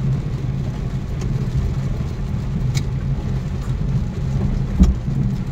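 Steady low hum of a car driving, heard from inside the cabin, with a single short knock near the end.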